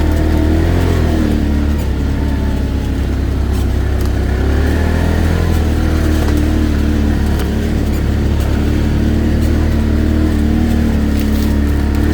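ATV engine running steadily under way, its pitch rising and falling a little as the throttle changes, over a heavy low rumble.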